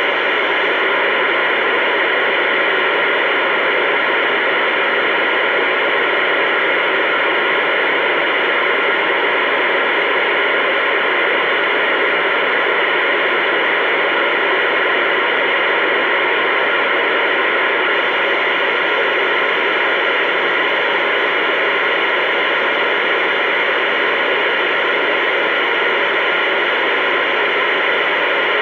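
Steady loud hiss of static from a CB two-way radio receiver with no one transmitting, an even rushing noise that does not change.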